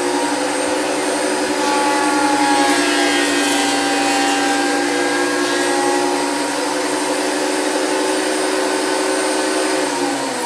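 Makita thickness planer running steadily with a high motor whine, planing a pallet-wood board. Near the end its pitch starts to fall as it winds down.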